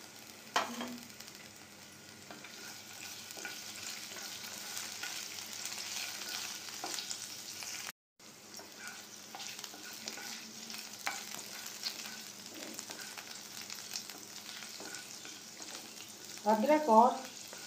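Chopped ginger and green chillies sizzling and crackling in a couple of spoonfuls of hot oil in a nonstick frying pan, with a wooden spatula stirring them. The sound cuts out for a moment about eight seconds in.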